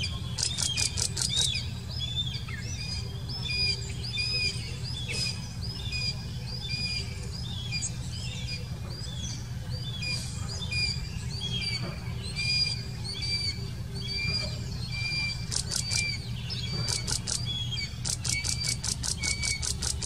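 Birds chirping with short repeated calls, broken by bursts of rapid chittering trills near the start and through the last few seconds, over a steady low hum.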